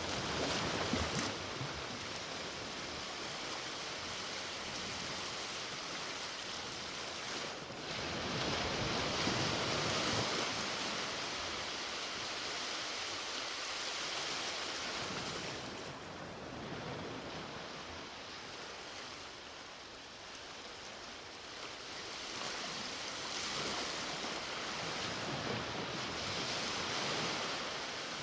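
Ocean waves breaking and washing up on a beach, a continuous surf that swells and eases, with louder breaks near the start, at around eight to eleven seconds and near the end.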